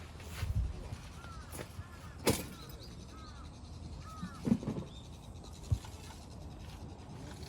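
A bird calling several times, each call a quick rising-and-falling note, with a few scattered knocks and thumps; the loudest knock comes about four and a half seconds in.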